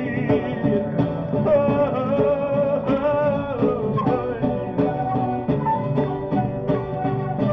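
A shamanic-rock band playing live: guitar over a steady percussion beat, with a wavering melody line above.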